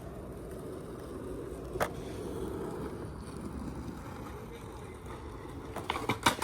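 Skateboard rolling on pavement, its wheels making a steady low rumble, with a sharp click about two seconds in and a quick cluster of clacks near the end.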